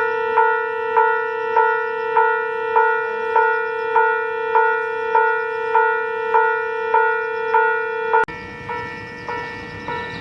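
Electronic platform departure bell ringing for a train about to leave, a steady bell tone pulsing evenly about twice a second. It drops suddenly in level about eight seconds in.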